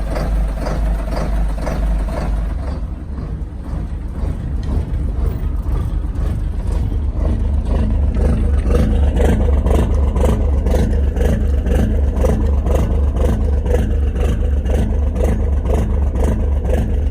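Diesel engine of a Yanmar GA43EV boat running steadily, its revs raised about five seconds in and held at the higher speed with a deep, even rumble.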